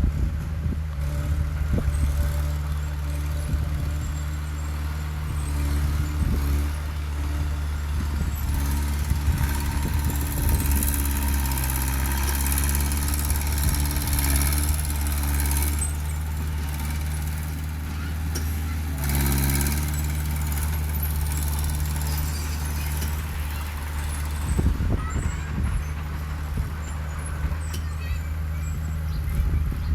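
Heavy diesel engine of earthmoving machinery running steadily under load. The engine note shifts and rises in effort for a few seconds about halfway through, and surges again briefly a few seconds later.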